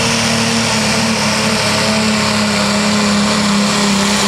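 Super stock pulling tractor's engine running flat out at a steady high pitch under full load while pulling the sled, with a constant loud roar of exhaust noise.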